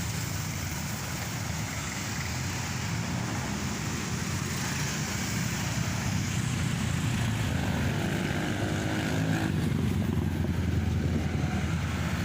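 Aircraft engines drone as a plane passes low overhead, growing steadily louder, over a steady hum of road traffic.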